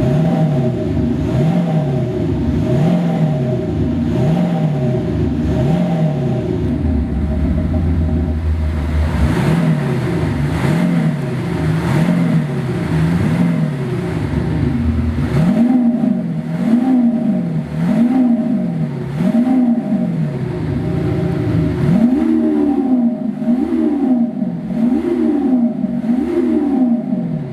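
Maxhaust active sound generator on a diesel car, its exhaust speaker playing a synthetic Maserati-style engine note that is revved up and down over and over, about once a second, in an even rising-and-falling pattern.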